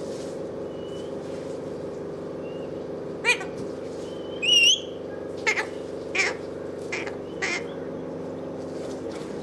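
Pet parrot giving about six short, sharp squawks, the loudest a longer wavering call about halfway through, over a steady machine hum.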